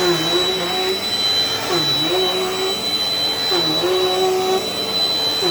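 Dirt Devil Dynamite Plus vacuum cleaner running, a whining motor with a steady high tone above it. The motor's pitch dips briefly and comes back up about every two seconds, three times.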